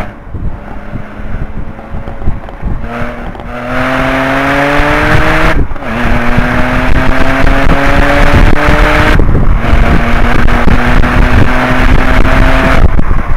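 Cabin sound of a 2010 Audi S4's supercharged 3.0-litre V6 at full throttle, its pitch climbing as the car accelerates. The note breaks twice, about six and nine seconds in, and picks up lower each time with the shifts up through the gears. Near the end the engine note falls away as the throttle comes off, with wind and road noise throughout.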